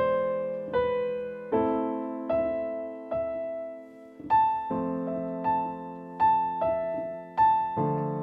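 Piano playing a slow improvisation in A minor: held left-hand chords with a single-note right-hand melody, one note struck about every three-quarters of a second, each ringing and fading.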